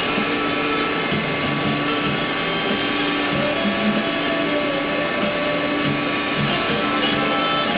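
Machine-shop machinery running steadily, an unbroken whirring hum with several steady tones over it.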